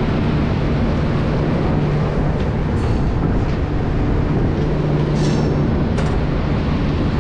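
Jaipur Double Decker Express running as it pulls out of the station, heard from the coach's open door: a steady rumble and hum with a few faint clicks and knocks.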